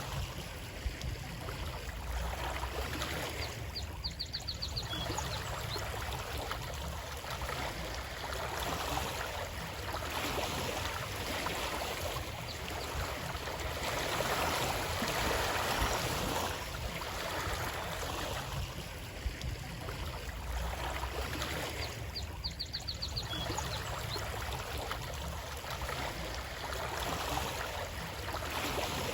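Running water of a stream, a steady rushing and gurgling that swells and eases slowly over several seconds.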